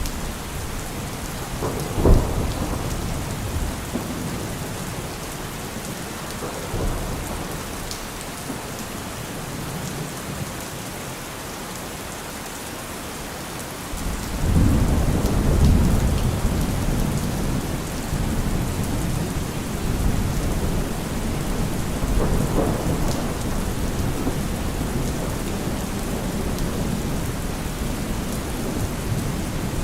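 Steady rain falling, with a sharp thunderclap about two seconds in. About halfway through, a long, deep thunder rumble rolls in and slowly fades.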